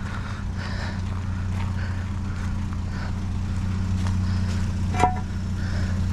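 A vehicle engine idling steadily with a low, even hum. About five seconds in, a single sharp metallic clank rings briefly.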